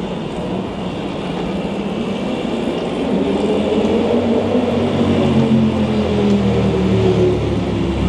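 City street traffic noise, with a vehicle engine's hum growing louder from about three seconds in.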